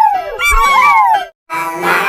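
High, gliding howl-like calls, rising and falling in pitch, that cut off suddenly just over a second in. After a short silence, bright children's music with a reedy, harmonica-like tone starts.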